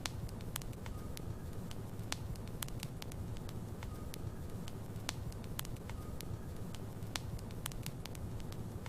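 Logs burning in a fireplace: irregular sharp crackles and pops, several a second, over a steady low rumble of the flames.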